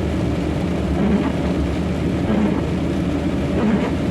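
Truck's diesel engine running steadily at low speed, heard from inside the cab, with tyre hiss from the rain-soaked road.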